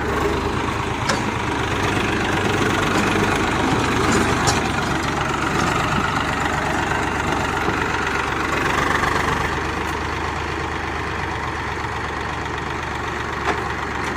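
Eicher 480 diesel tractor engine running steadily without a break, with a few faint clicks over it.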